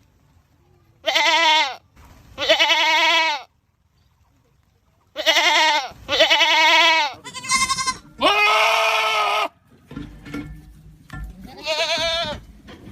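Goats screaming: about seven loud, wavering bleats in a row, some short and some drawn out for more than a second, with pauses between them.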